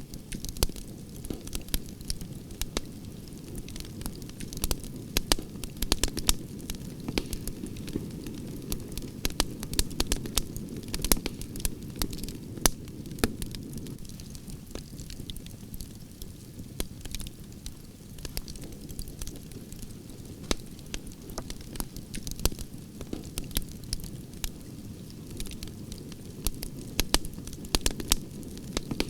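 Wood fire of burning branches crackling: a steady low rush of flames under frequent sharp, irregular pops and snaps.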